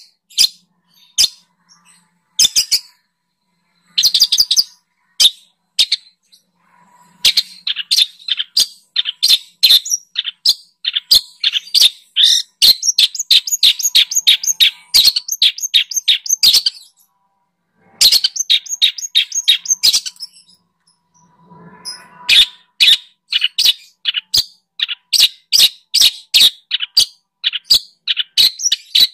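Songbird singing in quick runs of sharp, high chirps, several notes a second. The notes come sparsely for the first few seconds, then in dense bursts with short breaks about two-thirds of the way through.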